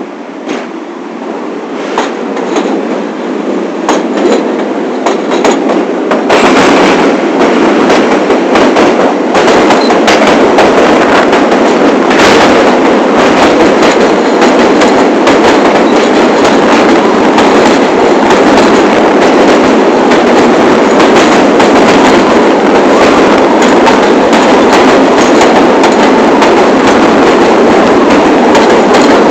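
New York City subway train (the 1 line) running on the rails, its wheels clicking over rail joints at a quickening pace as it picks up speed over the first six seconds or so. After that it runs at a steady loud level with a continuous clatter.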